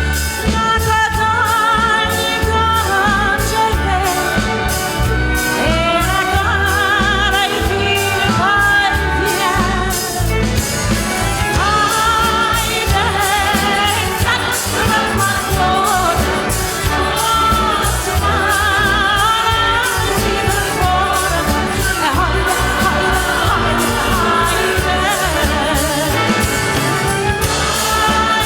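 A woman singing with vibrato over orchestral accompaniment with a steady beat.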